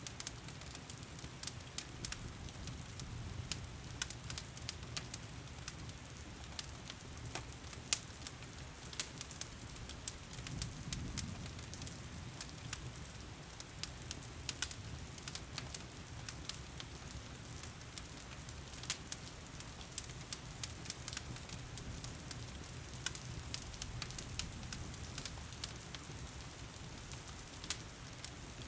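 Wood fire in a stone fireplace crackling, with frequent irregular sharp pops, over a steady hiss of rain and a low rumble.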